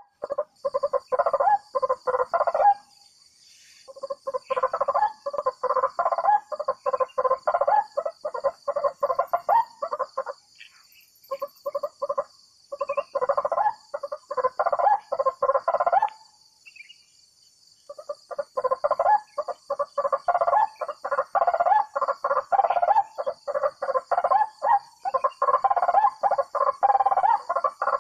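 Lesser whistling ducks calling, a fast chattering run of short notes in long bouts with brief pauses between them, over a steady high hum of insects.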